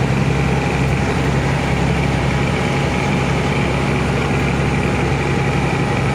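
Truck engine running steadily under load while climbing uphill, an even hum with no change in pitch.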